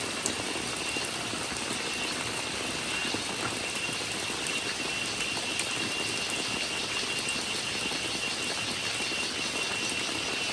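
Steady rainforest rain with a continuous high, unchanging cicada drone over it and scattered faint drop ticks.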